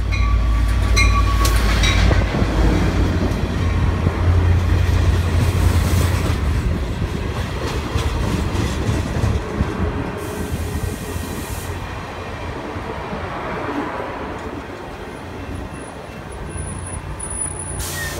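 Caltrain diesel-hauled passenger train passing close by: a loud low engine rumble from the locomotive, then the cars' wheels clicking and squealing on the rails, the sound slowly fading over the second half.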